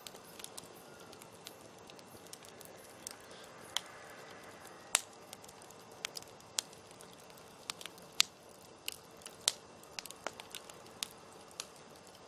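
Open wood campfire crackling: sharp, irregular pops and snaps over a soft steady hiss of burning.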